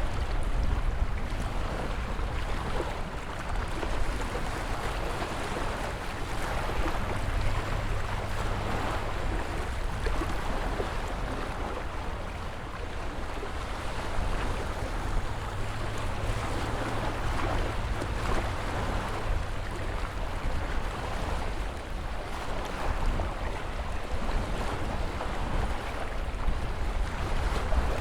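Ocean surf washing in continuously, an even rush of waves with a deep rumble underneath and only small swells in loudness.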